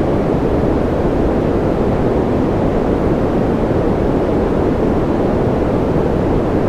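Steady noise-masking track: an even, unchanging hiss weighted toward the low and middle pitches, with no patter or individual drops.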